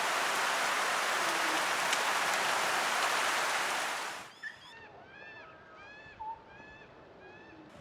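Heavy rain falling as a steady hiss, which cuts off suddenly about four seconds in. Birds then chirp in a series of short, arching calls.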